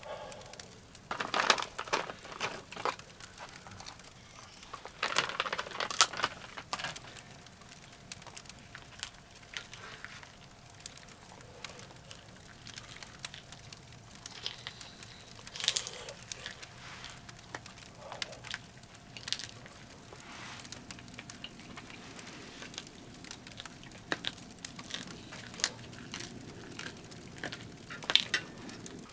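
Firewood crackling in a wood stove, with irregular sharp pops. Two longer bursts of crinkling crackle come in the first several seconds.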